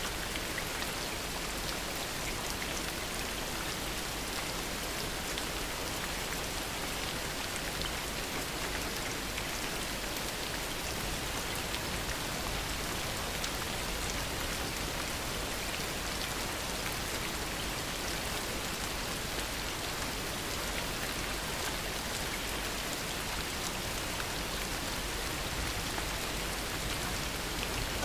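Heavy rain falling steadily: a dense, even hiss of rain with scattered individual drops ticking through it.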